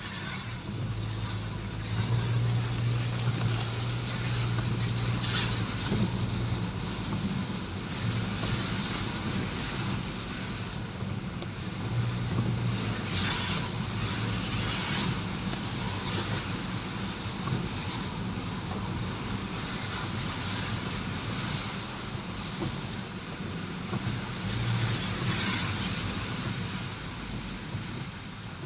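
A vehicle running along the road: a steady low engine hum under road noise, with wind buffeting the microphone.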